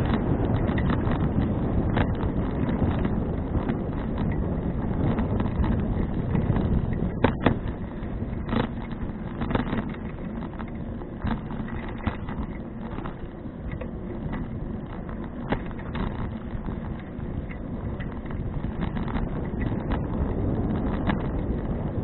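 Wind rushing over an action camera's microphone while riding a 2012 Fuji Touring bicycle, with steady rolling noise and scattered clicks and knocks from the bike over bumps. The knocks are loudest about seven to ten seconds in.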